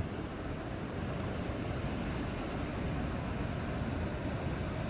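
Kawasaki Jetfoil 929 running on its gas-turbine engines, which drive water jets: a steady jet rush with a thin high whistle running through it that sounds exactly like an aeroplane.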